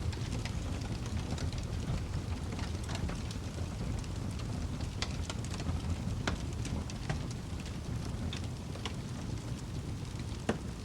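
Wood fire burning in a fireplace: a steady low rush of flames with frequent sharp crackles and occasional louder pops.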